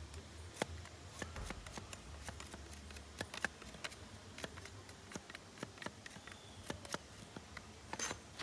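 Irregular light clicks and taps, a few a second, over a faint low hum, with a short scratchy rustle near the end.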